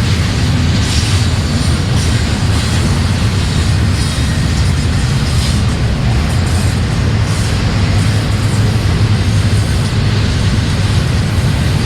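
Canadian National freight train rolling past close by, a loud, steady rumble with no break.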